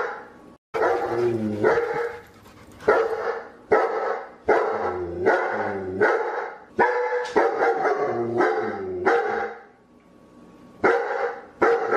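A dog barking over and over, about one bark a second, each bark dropping in pitch, with a short pause near the end.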